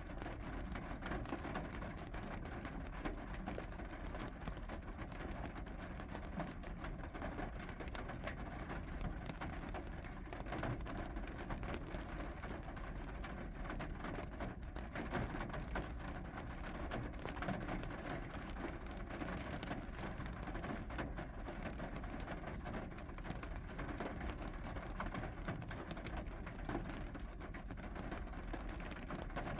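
Steady rain falling: an even hiss dotted with many small ticks of drops, unchanging throughout.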